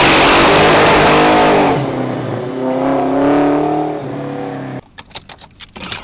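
1989 Mustang 5.0 (302) V8 with a Vortech V1 supercharger, held at high revs with a steady high whine, then the revs drop and swing up and down. It cuts off abruptly near the end, and a few sharp clicks follow.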